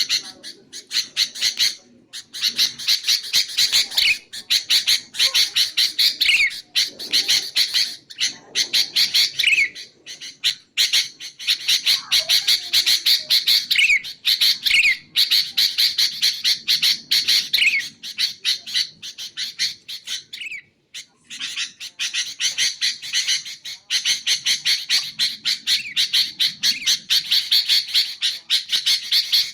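Sooty-headed bulbul chattering: a fast, harsh run of notes, many a second, with short down-sliding notes mixed in. It breaks off briefly twice, once near the start and once about two-thirds of the way through.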